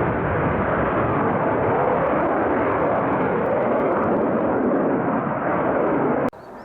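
Fighter jet engine noise, a loud, steady rush, cutting off abruptly near the end.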